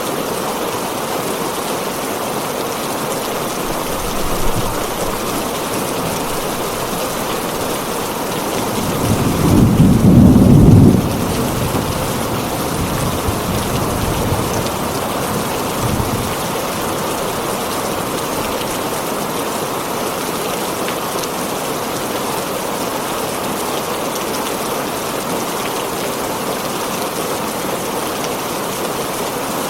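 Heavy rain pattering steadily on a tin roof, with thunder: one loud low rumble about nine seconds in lasting a couple of seconds, and fainter rumbles a few seconds before and after it.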